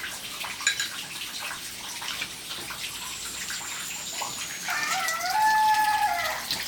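A rooster crows once, starting near five seconds in and lasting under two seconds. It sounds over a steady wash of running water, with scattered small clicks.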